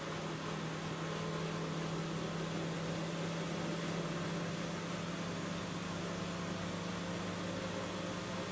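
Front-loading washing machine running, a steady motor hum with an even hiss over it.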